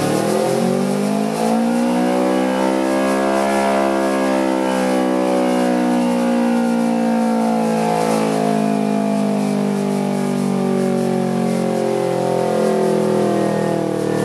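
Kawasaki Ninja 250R's parallel-twin engine running through an aftermarket performance exhaust. The revs climb for the first three or so seconds, then slowly fall away for the rest.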